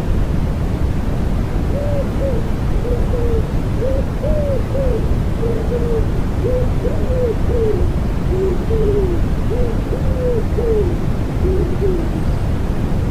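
Wood pigeon cooing, a run of soft arched coo notes in repeated phrases that starts about two seconds in and stops about a second before the end, over a steady bed of white noise and rain.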